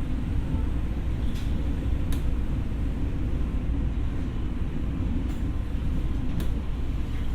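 Former Tokyo Metro 6000 series electric train running, heard from inside: a steady low rumble of wheels on rail, with a few short sharp clicks.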